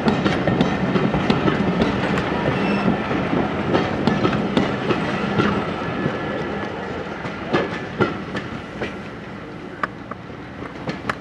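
Coaches of a steam-hauled passenger train rolling past at low speed, the wheels clicking and clattering over rail joints and pointwork. The sound eases slightly toward the end.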